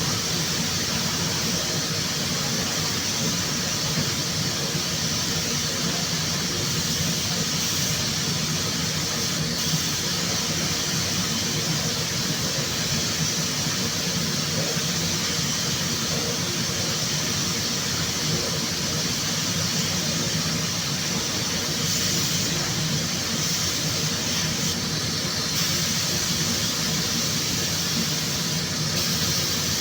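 Steady hiss of compressed air from an automotive paint spray gun, over a low, even machine hum. The hiss gets brighter for a few seconds about three quarters of the way through.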